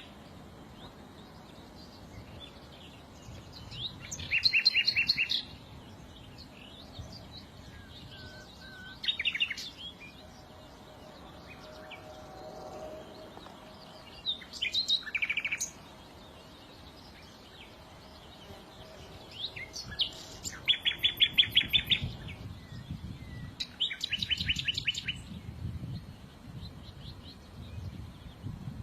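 Small songbirds singing in short bursts of rapid, trilled chirps, about five bursts a few seconds apart, the loudest around the middle-to-late part.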